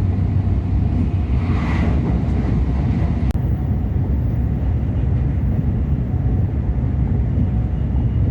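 Train running at speed: a steady, loud low rumble, with a brief faint hiss about a second and a half in.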